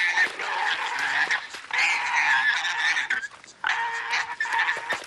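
Warthog squealing as young lions hold it down, three long, high, wavering squeals, each about a second and a half long.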